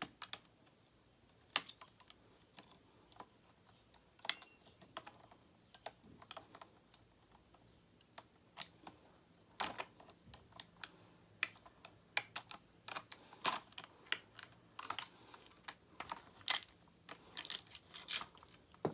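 Irregular sharp clicks and taps of plastic packaging being handled and cut open, with a quick cluster of clicks near the end.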